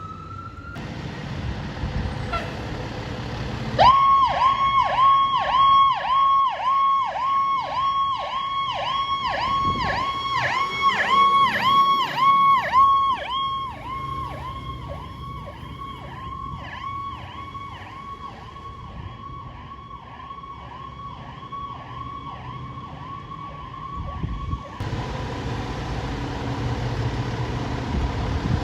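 Emergency vehicle siren in a fast yelp, sweeping up and down about two to three times a second over a low traffic and engine rumble. It starts sharply about four seconds in, is loudest for the next ten seconds or so, then weakens and cuts off a few seconds before the end.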